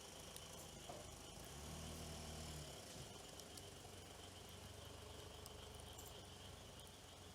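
Faint steady high insect chirring, with scattered soft crackles from a small campfire. A brief low hum comes in about one and a half seconds in and fades about a second later.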